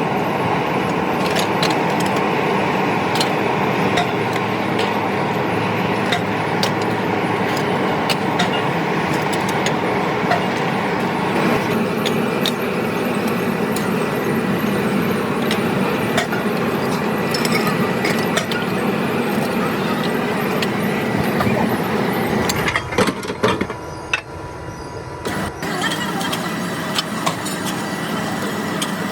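Factory machinery running steadily, a dense mechanical noise with a faint steady hum and many scattered clicks and knocks. About three quarters of the way through, the higher part of the noise cuts out for a few seconds, then comes back.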